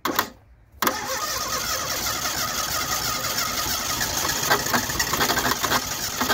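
The Fiat 127's 100GL four-cylinder petrol engine catches about a second in and then keeps running steadily, a dense mechanical clatter, after a brief burst right at the start.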